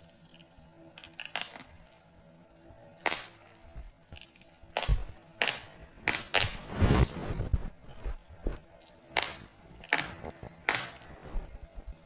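Wood fire crackling, with irregular sharp pops and snaps that come thickest and loudest in the middle.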